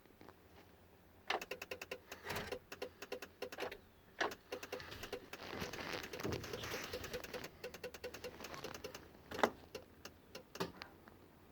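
Rapid electrical clicking from a Freightliner M2 that will not start, coming in bursts of up to a few seconds, with a faint steady buzz beneath. This kind of chatter is typical of a starter solenoid or relay that cannot pull in.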